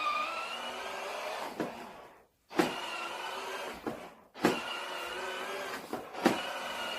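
Electric motor and gearbox of a children's ride-on toy motorcycle whining as the foot pedal is pressed, running in three spurts with a knock at each start and short breaks about two and four seconds in.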